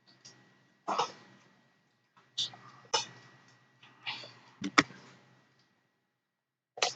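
Scattered short clicks and knocks, about eight in seven seconds, with a sharper, louder knock just before the five-second mark.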